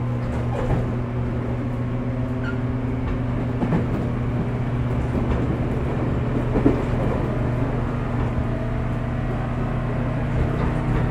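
Onboard running sound of a 415 series electric multiple unit at steady speed, heard under the pantograph of its motor car MoHa 414-1501: a steady hum of the traction motors and gearing over rumble, with a few sharp clacks, like wheels crossing rail joints.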